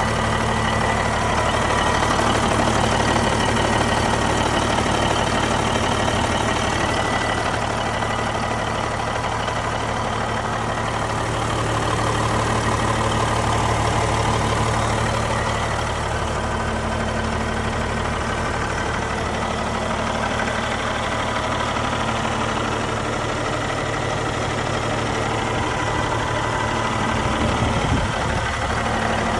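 Caterpillar 3406B inline-six diesel of a 1991 International Eagle dump truck idling steadily.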